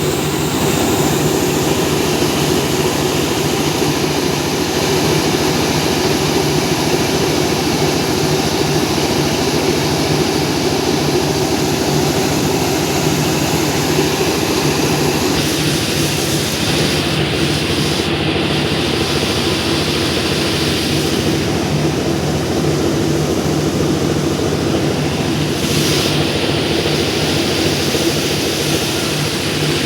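Mobile rice milling machine running steadily: a constant machine drone with an even rushing noise over it, changing slightly in tone about halfway through.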